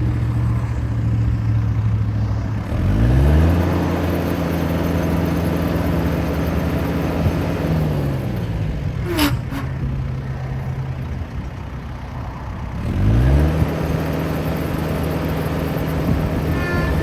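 Compact tractor's diesel engine running and being revved: it climbs to a higher speed a few seconds in, holds, drops back to a lower speed, then revs up again and holds. A single sharp click sounds just past the middle.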